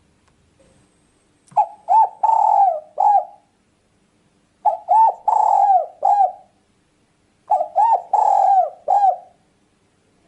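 Spotted dove (tekukur) cooing: three call phrases about three seconds apart, each a couple of short arched coos, a longer coo, then a final short coo.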